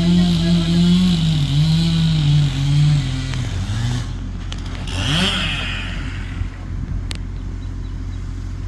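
Chainsaw at full throttle, its engine note sagging lower over about three seconds as it bogs down in the cut, then dropping back near four seconds. About a second later comes one quick rev up and down. A steady low hum runs under it.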